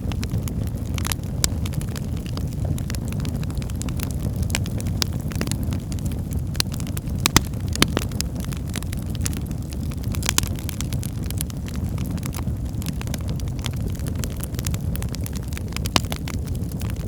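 Wood fire burning in a fireplace: a steady low rumble of flame with scattered crackles of burning firewood and a few sharp pops, the loudest about seven to eight seconds in and again near ten seconds.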